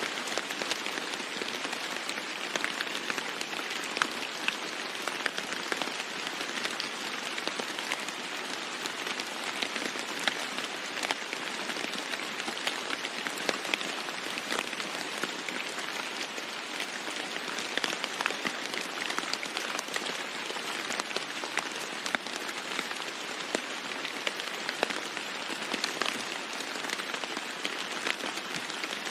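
Steady rain falling on a roof: an even hiss with many sharp, separate drop taps scattered through it.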